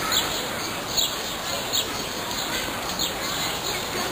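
Small birds chirping: short, high calls falling in pitch, about once a second, over a steady outdoor background hiss.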